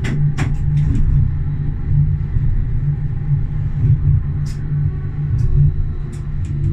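Tram running along its rails: a steady low rumble with scattered sharp clicks and knocks, a cluster of them near the start.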